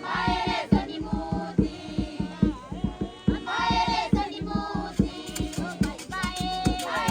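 A group of local people singing a lively song together over a steady percussive beat of about three strokes a second.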